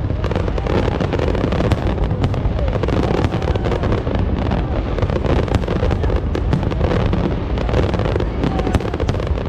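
Aerial fireworks display going off: a dense, unbroken crackle of many small bursts over a steady low rumble of booms.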